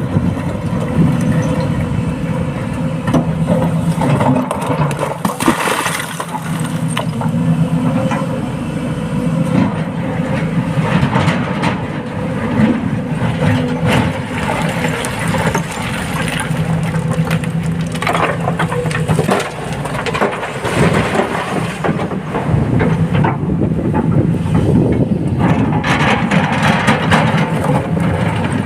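Heavy diesel engine of an excavator running and working, rising and falling under load, with crunching and scraping of rock at intervals as material is loaded into a dump truck.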